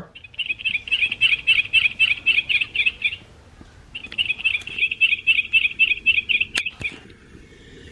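Recorded yellow-rumped warbler song played from the sound box of a Wild Republic plush bird when it is squeezed: a run of evenly repeated high notes, played twice with a short gap between.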